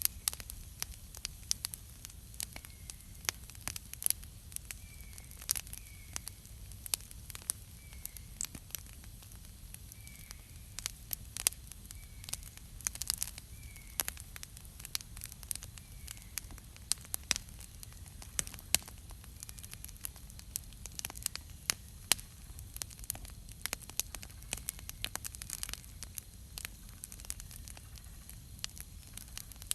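Wood campfire crackling, with frequent irregular sharp pops and snaps. A faint short chirp repeats every second or two behind it.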